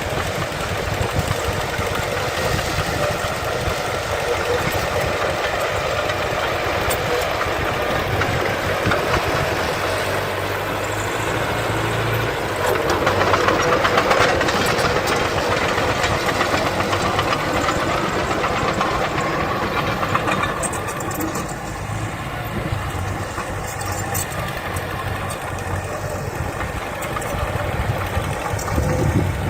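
Diesel engines of earthmoving machinery running steadily, louder for a few seconds about 13 seconds in.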